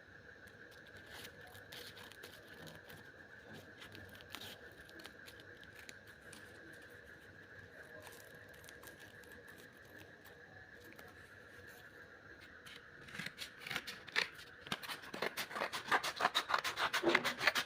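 Steel scissors snipping: scattered faint cuts at first, then a fast run of snips that grows louder over the last few seconds, over a faint steady high hum.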